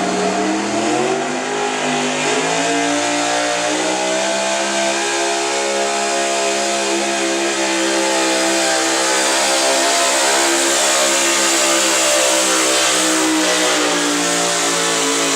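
Gasoline 4x4 pickup engine at full throttle pulling a sled. Its pitch climbs over the first few seconds, then holds high and steady, sagging slightly near the end.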